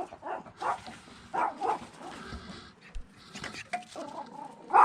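A big dog barking and whining in several short, separate calls, the loudest just before the end.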